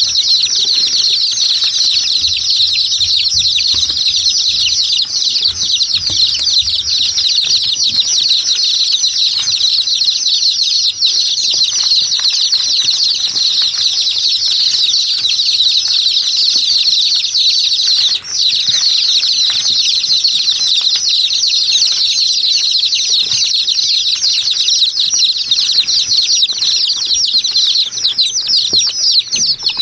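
A loud, continuous chorus of many small birds chirping at once, hundreds of short falling chirps overlapping into a steady din, with a momentary lull about eighteen seconds in.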